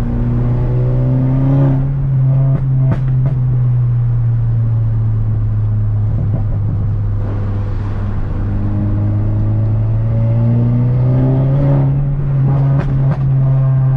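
Loud, low exhaust of a tuned VW GTI's turbocharged four-cylinder through a catless downpipe and a Tomei titanium muffler, heard while driving: a steady drone whose pitch rises a little as the engine picks up, about a second in and again near the end. A few short sharp clicks or pops come in two small clusters, about three seconds in and near the end.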